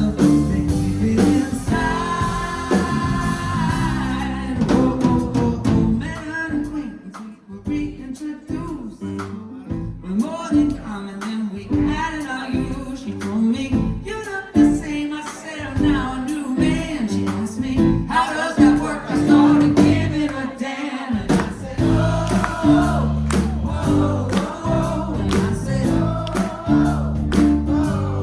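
Live pop band playing with a singing voice over it; the accompaniment thins out for a few seconds after about six seconds in, then the full band with bass comes back near the last third.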